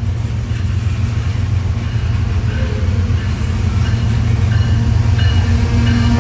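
A train running by close, with a loud, steady low rumble of the locomotive and the clatter and hiss of the rails, growing slowly louder. Faint short high tones come and go over it.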